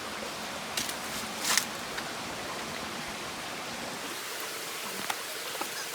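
Steady rushing of flowing stream water, with a couple of faint short rustles about a second and a second and a half in.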